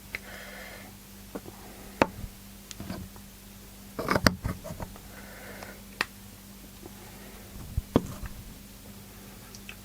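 Scattered small clicks and knocks of small parts and a super glue bottle being handled on a workbench, with a cluster of knocks about four seconds in, over a steady low hum.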